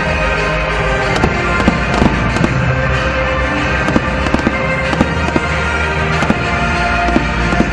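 Aerial fireworks bursting in quick succession, many sharp bangs, with music playing alongside.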